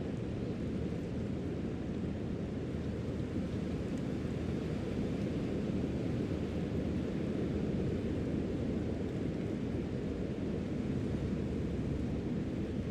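Steady low rumble of wind and ocean surf, an even noise with no separate sounds standing out.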